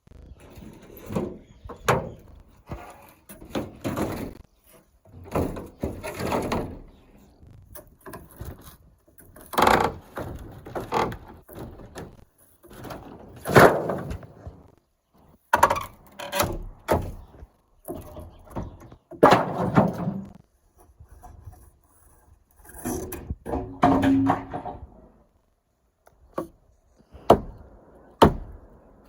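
Irregular wooden knocks, thuds and scraping as old roof boards and timbers are pried loose and handled during roof demolition, with a short creak about three-quarters of the way through.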